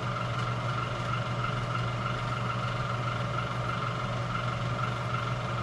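Steady machine hum in a workshop: a low drone with a higher whine, both holding a constant pitch and level.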